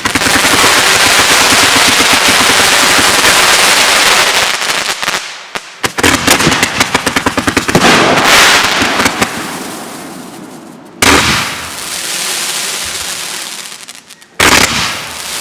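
Fireworks going off: a dense run of rapid crackling pops for about five seconds, then a second run of pops after a short break. A sudden bang comes about eleven seconds in, with hissing after it, and another sudden bang near the end.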